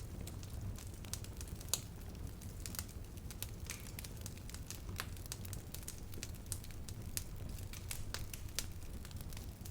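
Campfire burning with a steady low rumble and irregular sharp crackles and pops of burning wood, one louder pop about two seconds in.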